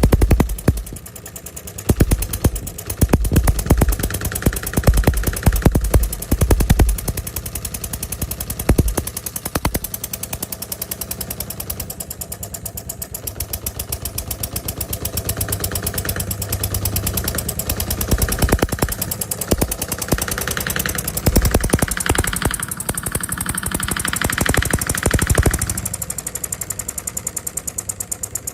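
Stirlingkit D16 model diesel engine running, a fast, even train of firing knocks that grows louder and busier a few times as it revs up and settles back.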